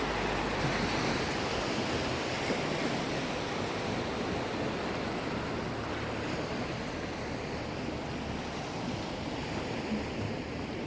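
Sea waves washing onto the shore: a steady, continuous rush of surf that eases slightly in the second half.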